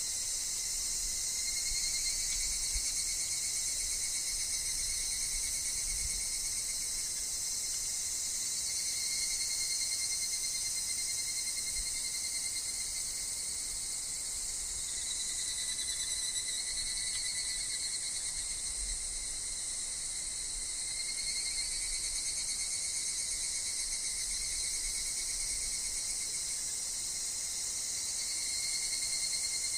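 A steady high-pitched chorus of higurashi (evening cicadas) and other insects calling in a wood, layered and unbroken, swelling and easing a little in places.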